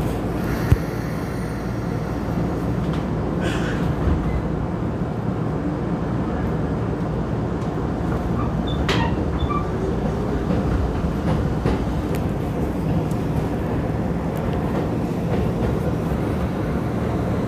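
Steady rumble of a Keisei 3500-series electric commuter train, with a single sharp click about a second in.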